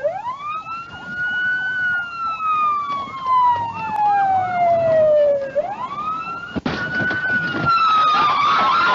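Police car siren wailing: a quick rise, then a long slow fall, the cycle starting again about five and a half seconds in. A second siren joins near the end, and there is a single sharp click a little before it.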